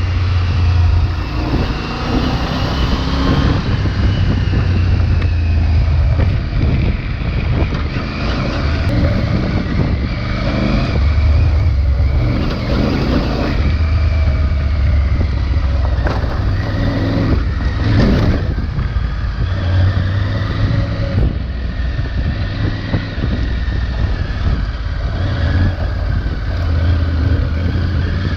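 Triumph Tiger 900 Rally Pro's 900 cc three-cylinder engine running on the stock exhaust while riding an off-road trail, its revs rising and falling with the throttle. There are a few sharp knocks from the rough ground about two-thirds of the way through.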